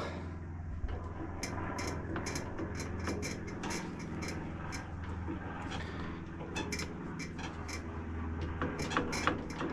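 Scattered light clicks and knocks of metal engine parts being handled, as the mower engine's starter is tested for looseness by hand, over a steady low hum.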